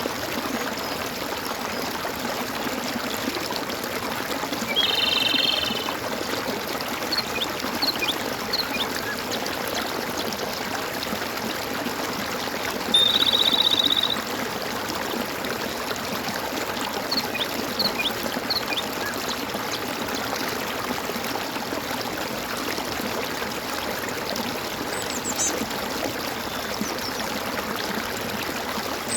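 Water gurgling and trickling steadily, like a small stream or fountain. Two short, loud trilled calls cut in, about five and about thirteen seconds in, with scattered brief high chirps between them.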